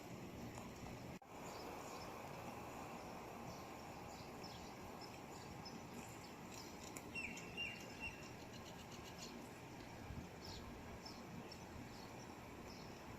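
Small birds chirping faintly over steady outdoor background hiss, with short high calls scattered through the middle of the stretch.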